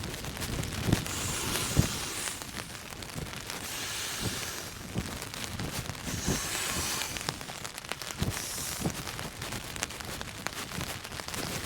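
A Sea to Summit Aeros inflatable pillow being blown up by mouth: four breathy puffs about two seconds apart. Rain patters and ticks on the tent fabric throughout.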